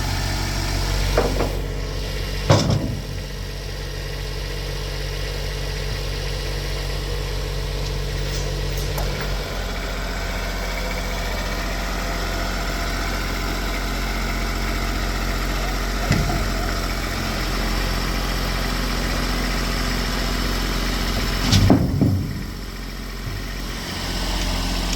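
Tractor engine running steadily at idle, its note shifting slightly about ten seconds in. A few sharp knocks, the loudest about two and a half seconds in and again near the end, fall over it as rails are handled.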